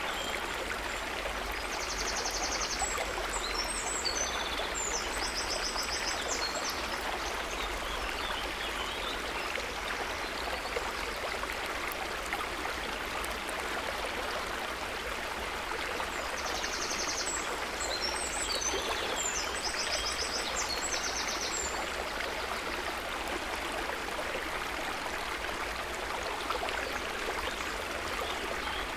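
River water running steadily, a continuous even rush of flowing water. High chirping calls come through twice over it.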